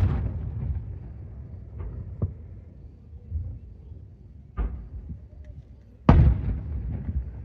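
Fireworks shells bursting: the boom of one dies away in a rolling rumble, a sharp crack comes about two seconds in, a smaller bang at about four and a half seconds, and a big boom about six seconds in that rumbles on.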